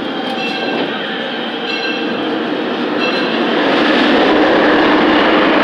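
A steam-hauled narrow-gauge park train running along the track, heard from one of its passenger cars as a steady rumble of wheels and cars. It grows louder a little over halfway through.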